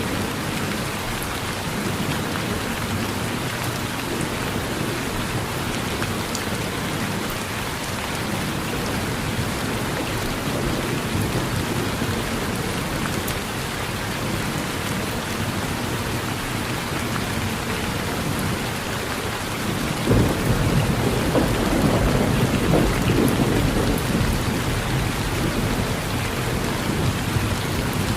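Steady rain falling on a porch, with a rumble of thunder breaking in suddenly about two-thirds of the way through and rolling on for several seconds.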